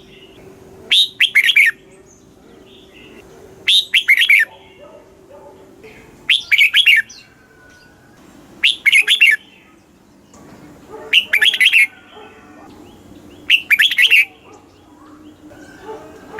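Red-whiskered bulbul repeating its song phrase, a short burst of quick, bright, warbling notes. The phrase comes about every two and a half seconds, six times in all, with faint chirps in between.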